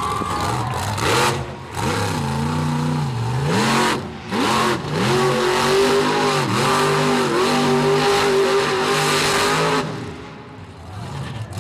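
Monster truck's supercharged V8 engine revving hard in repeated surges, its pitch rising and falling, then easing off near the end.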